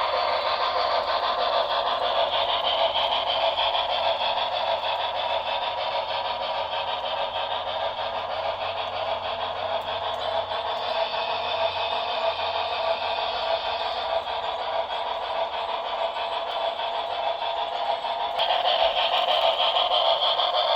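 Model train of a Santa Fe Blue Goose steam locomotive and passenger cars running along the track: a steady whirring, rattling rolling noise that gets louder about 18 seconds in.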